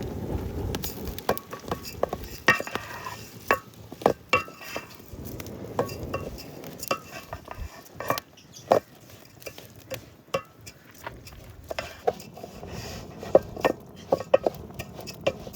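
Metal cooking utensils and pots clinking, knocking and scraping in an irregular run of sharp strikes, as food is stirred or handled in a pot.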